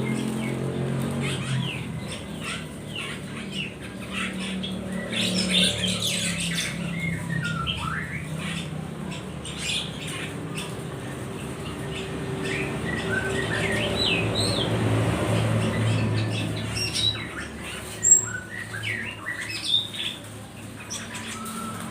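A box of small wild-caught songbirds chirping and squawking, with many short calls and quick up-and-down glides throughout and one sharp, loud call about eighteen seconds in. A steady low hum runs underneath.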